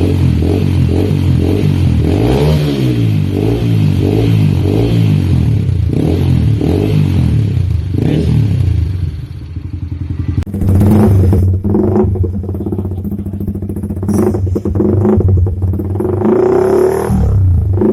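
Motorcycle fitted with an aftermarket racing exhaust, the engine running loudly with a quick blip of revs early on. The sound changes abruptly about ten seconds in.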